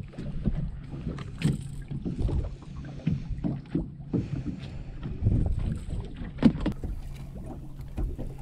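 Fishing boat moving slowly at trolling speed: a low steady engine hum under irregular water splashes and knocks against the hull, with wind on the microphone. There is a sharper knock about six and a half seconds in.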